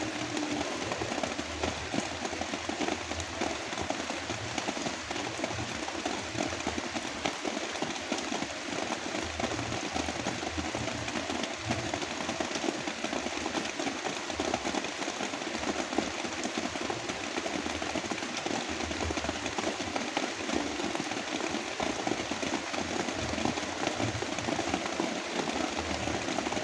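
Heavy rain falling steadily, a dense hiss full of tiny crackling drop impacts, layered over deep brown noise.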